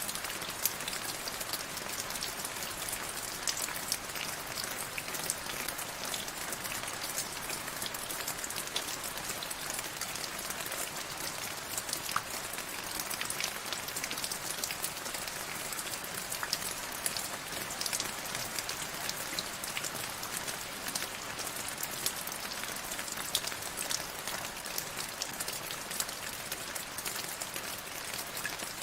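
Steady rain falling, with many small drops pattering and ticking sharply on a hard surface.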